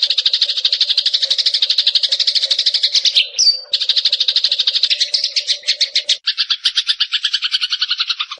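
Eurasian tree sparrow (burung gereja) giving a fast, rattling trill of high chirps, about a dozen notes a second. About three seconds in it breaks off for one rising whistle. Just after six seconds it pauses briefly, then the trill goes on with a lower note under it and cuts off suddenly at the end.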